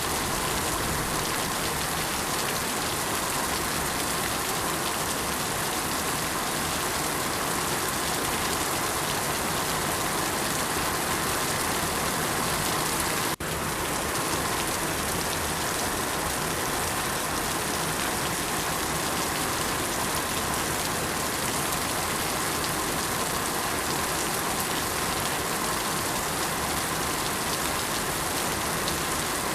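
Steady rain, an even hiss of countless drops falling on a surface, with a brief dropout about halfway through.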